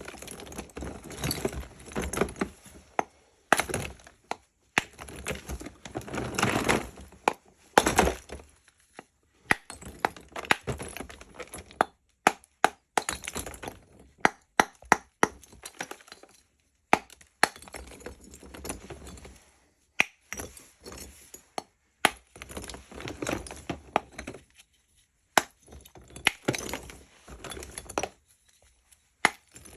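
Lumps of natural edible chalk being snapped and broken apart: a run of sharp cracks at irregular intervals, with short crumbling stretches between some of them.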